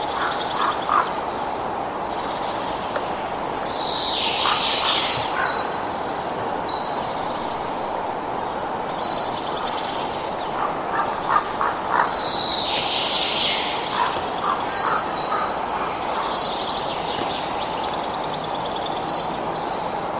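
Birds calling over a steady rushing background: short high calls throughout, two longer downward-sweeping calls, and clusters of quick low chirps.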